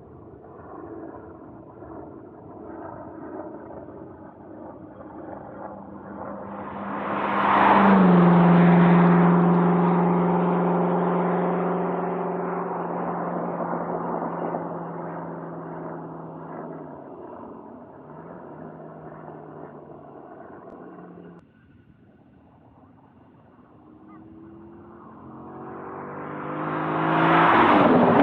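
Chevrolet Corvette C6's V8 through a Borla S-Type exhaust, driving past twice. The engine note builds as the car approaches, is loudest as it goes by about eight seconds in with its pitch dropping, then fades away; a second pass builds near the end and goes by with the same drop in pitch.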